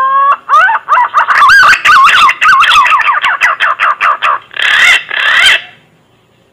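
Green pigeon (punai) song played as a hunting lure call: a rising whistled note, then a fast run of warbling whistles that bend up and down, ending in two harsher notes about five seconds in.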